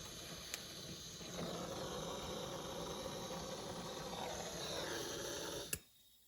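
Brazing torch flame hissing steadily, getting louder after about a second, then stopping abruptly with a click near the end.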